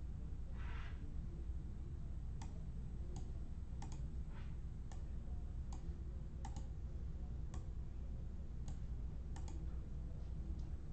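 Sharp separate clicks at an uneven pace of roughly one a second, with two short scraping sounds, over a steady low hum.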